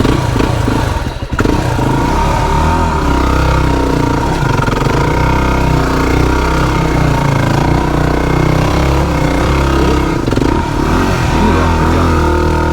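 Motorbike engine running and revving as the bike is ridden over rough ground. The engine note dips briefly about a second in, then runs on loudly with its pitch rising and falling.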